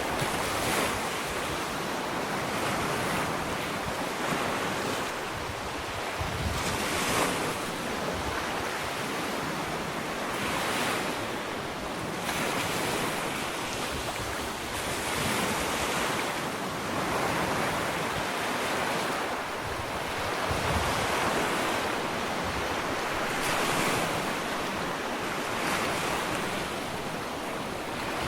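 Ocean waves washing up on a sandy beach, a steady surf noise that swells and eases as each wave breaks and runs up the shore.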